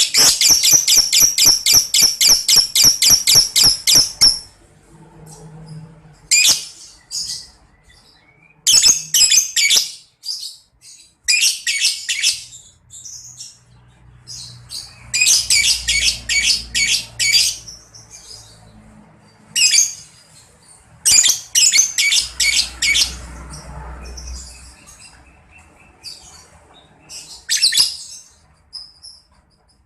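Lovebird ngekek: long runs of rapid, high-pitched chattering notes, about five a second. The longest run fills the first four seconds, followed by shorter bursts with pauses between.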